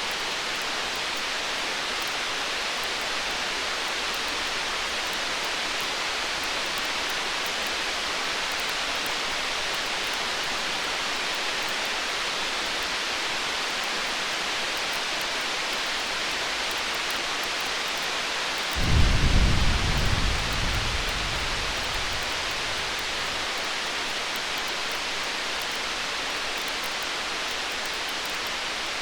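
Distant thunder: one low rumble breaks in suddenly about nineteen seconds in and fades away over about three seconds. Underneath runs a steady hiss with faint crackles from a campfire.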